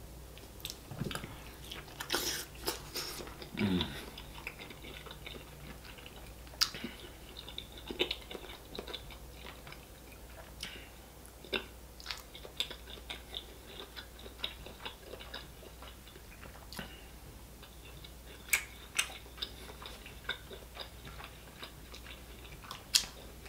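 A person chewing seafood close to the microphone, mainly king crab meat: soft wet chewing with irregular sharp clicks and crunches.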